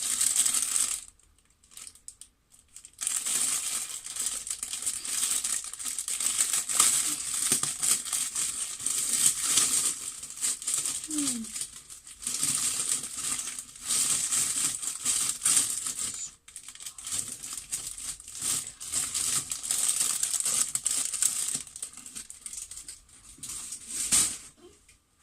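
Plastic packet crinkling and rustling as sprues of plastic model-kit wheels are handled and pulled out of it, in several bouts with short pauses between.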